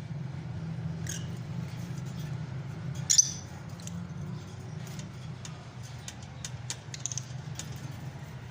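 Fischer's lovebirds calling: a sharp squawk about a second in and a louder one about three seconds in, then a run of brief, high squeaky chirps over a low steady hum.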